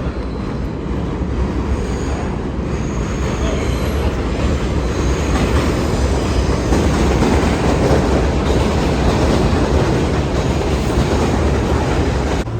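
New York City subway train running on the rails: a loud, steady rumble that grows louder toward the middle, with a faint high squeal of the wheels two to four seconds in.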